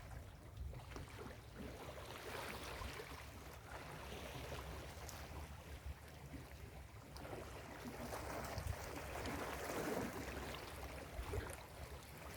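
Ocean surf breaking and washing up a beach, swelling twice, the second and louder wash near the end, with a low rumble underneath.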